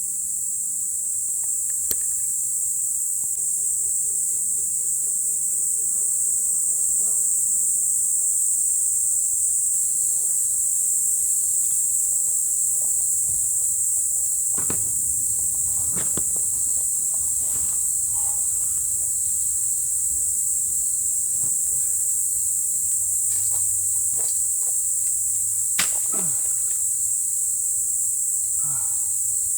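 Steady high-pitched chorus of crickets chirring without a break, with a few faint knocks in the middle and near the end.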